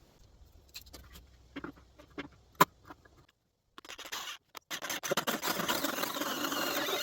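A few faint handling clicks and one sharp knock. Then, about four seconds in, a 2-1/2-inch hole saw in a drill starts grinding and scraping its way through a 2x6 wood block.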